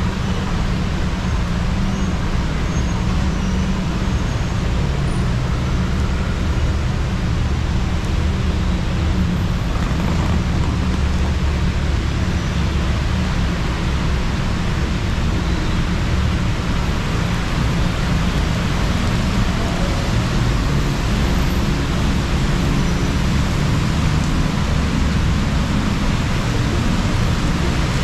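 Steady rain falling on a city street, mixed with the continuous noise of road traffic passing close by.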